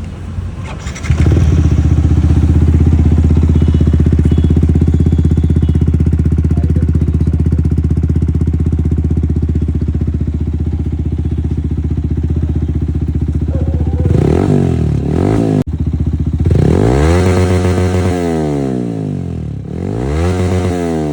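Yamaha R15 V4's single-cylinder engine, breathing through an aftermarket Yoshimura exhaust, idling steadily. In the last third the throttle is blipped several times, each rev rising and falling in pitch.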